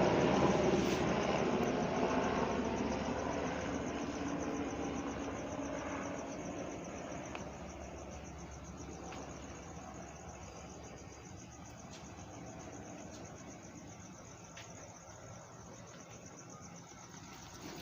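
UH-60M Black Hawk helicopter flying away, its rotor and engine noise fading steadily. As it fades, insects chirping in a fast, even high trill come to the fore.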